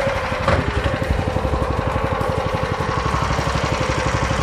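Small engine idling steadily, a fast even pulsing under a steady hum, with one brief knock about half a second in.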